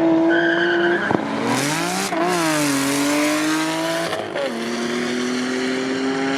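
Turbocharged race car engine running at high revs: a sharp click about a second in, then the pitch rises and falls and drops to a lower steady note a little past four seconds in.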